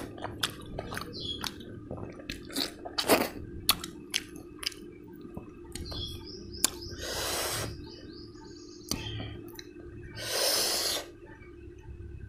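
Close-miked chewing of a mouthful of pork and rice, with many wet mouth clicks and smacks. Two long breaths, about three seconds apart, stand out as the loudest sounds.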